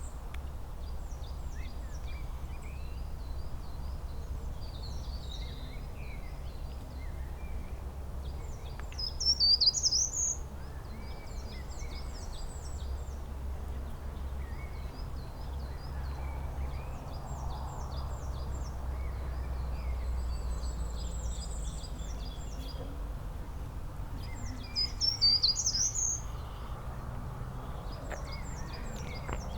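Several songbirds chirping and singing in spring, with many short high chirps and trills overlapping. One louder song phrase comes twice, about sixteen seconds apart. A steady low rumble runs underneath.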